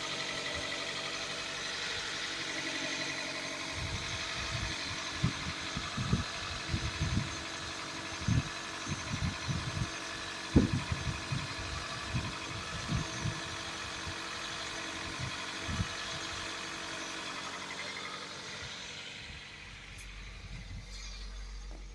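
Toyota MR2 Spyder's 1.8-litre four-cylinder engine idling steadily on a cold start, still warming up. Irregular low thumps come in about four seconds in and stop about sixteen seconds in. Near the end the engine sound fades.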